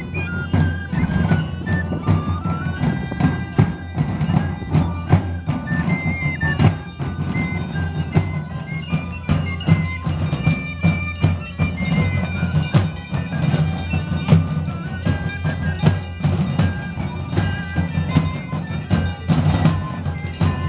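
Bagpipes playing a melody over their steady drones, with a group of drums beating along.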